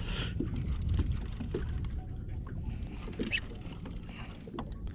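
Low steady rumble of a boat on the water, with scattered small clicks and knocks of fishing gear.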